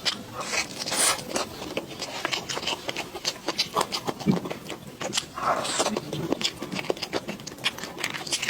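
A person eating up close: wet chewing and lip-smacking, with many short clicks.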